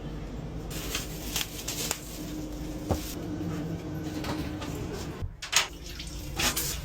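Steady low hum inside a high-speed train carriage, broken by a few short knocks, clicks and rustles of things being handled at the seat, the sharpest about three seconds in and about five and a half seconds in.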